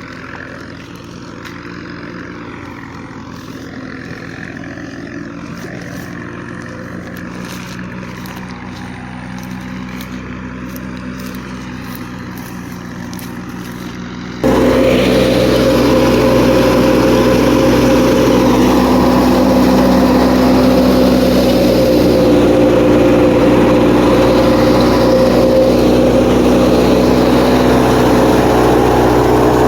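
Tractor engine and tractor-driven wheat thresher running steadily, a continuous machine drone. About halfway through, the sound jumps suddenly much louder and busier, then stays steady.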